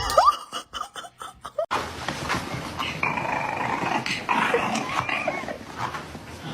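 A dog vocalizing in short sounds; about a second and a half in, the sound cuts abruptly to a steadier, noisier background with further intermittent dog sounds.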